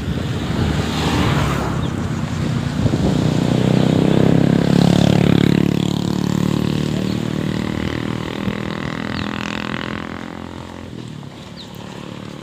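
A motor vehicle passes close by: its engine grows louder, peaks about four to five seconds in, then fades away as it moves off.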